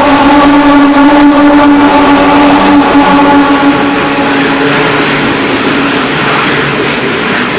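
Coal train passing close at speed. A loud, steady drone from the diesel locomotives fades out about four seconds in, and the steady rolling noise of coal hopper wagons on the rails takes over.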